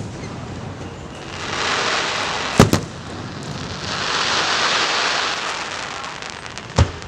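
Aerial fireworks shells bursting: a quick double boom about two and a half seconds in and another near the end, with long hissing, crackling sprays between them.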